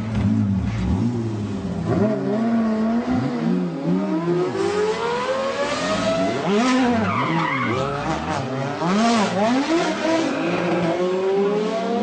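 Supercar engines being revved hard, their pitch climbing and dropping again and again, with several engines overlapping.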